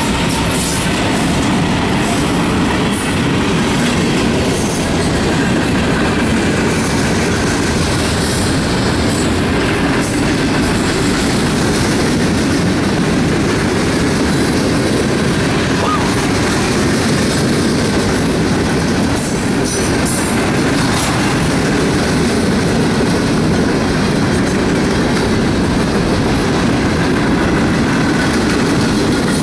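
Freight train cars (boxcars and covered hoppers) rolling past at close range: a loud, steady rumble of steel wheels on rail, with scattered short clicks.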